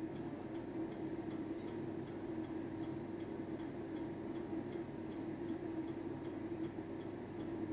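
Faint, evenly spaced ticking that keeps a rapid steady rhythm, over a steady low hum.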